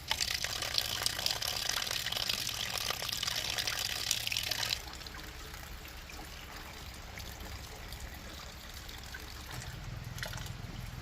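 Water running with a loud hiss, then cutting off suddenly about five seconds in, leaving a fainter steady background.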